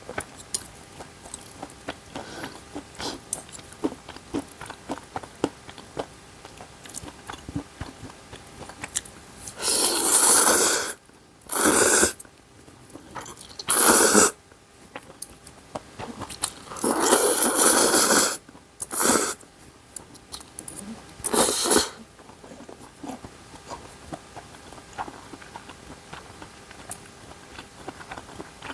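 Close-up eating sounds: chewing and biting with small wet clicks, broken in the middle by six loud rushing bursts, two of them longer than the rest.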